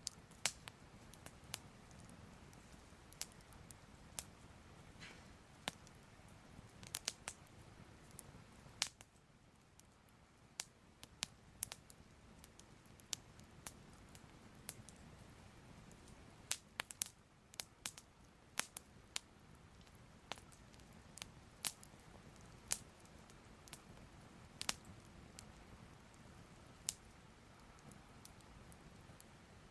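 Soft crackling fire: irregular sharp pops and crackles over a low steady rumble.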